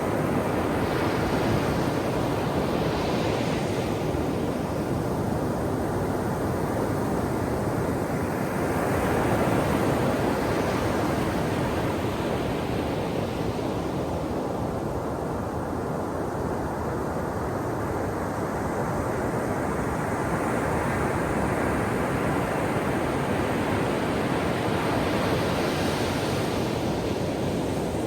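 Ocean surf breaking on the shore: a steady rushing wash, with waves swelling up into a louder hiss three times, near the start, about ten seconds in, and near the end.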